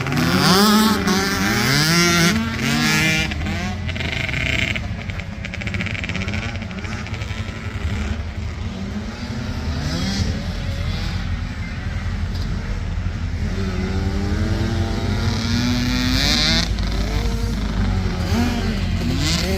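Motocross bikes racing, their engines revving up through the gears with repeated rising and dropping pitch as the riders shift, several engine notes overlapping.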